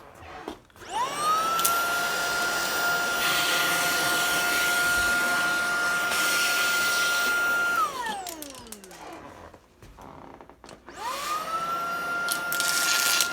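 Tineco cordless stick vacuum, crevice tool fitted, spinning up to a steady high whine for about seven seconds, then winding down with falling pitch as the trigger is let go. It starts up again and whines near the end.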